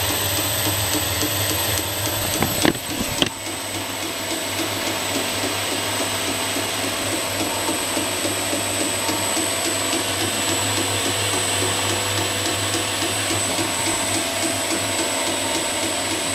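Homemade 2x72 belt grinder running steadily, its motor humming and belt hissing, with two brief knocks about three seconds in.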